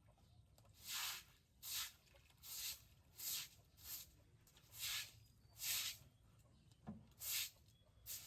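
Stiff broom sweeping in rhythmic strokes, about ten short swishes, one every three-quarters of a second or so.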